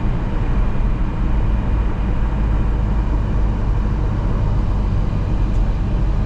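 Tour bus driving along the road, heard from inside the cabin: steady engine and tyre noise, strongest in the low end.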